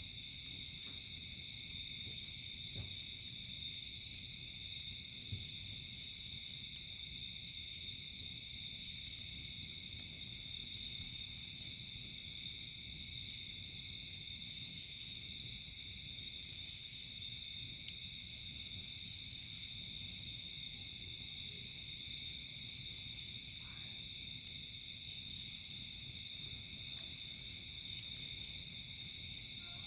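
Night insect chorus: a steady high-pitched trilling of crickets, with a higher pulsed buzzing call that comes back about every five seconds. Underneath is a low rumble with a few faint pops from the campfire.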